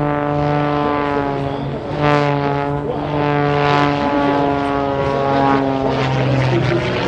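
Pitts S2 aerobatic biplane's 260 hp Lycoming engine and propeller at high power in flight. It makes a loud, steady buzzing drone whose pitch shifts slightly a couple of times as the plane manoeuvres.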